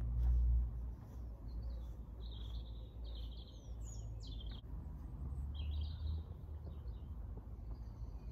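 Small birds chirping with short, repeated calls, over a steady low rumble of outdoor wind noise that is loudest in the first second.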